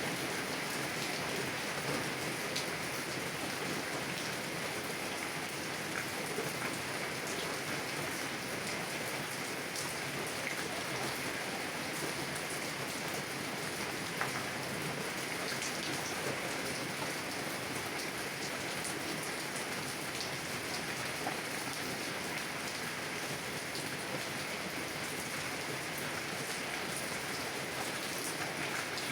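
Heavy rain pattering steadily on a car's windows and roof, an even hiss with scattered individual drop ticks.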